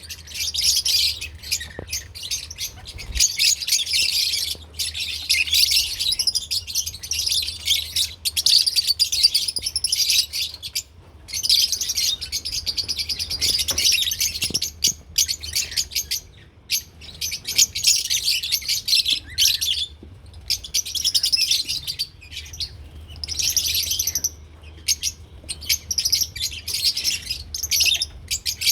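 Lovebirds chirping in a fast, high-pitched chatter that comes in bouts of a few seconds with brief pauses between them, over a faint steady low hum.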